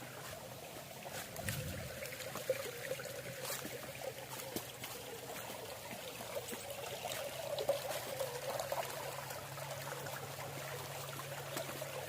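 Shallow stream water trickling and splashing steadily over rock at a small waterfall.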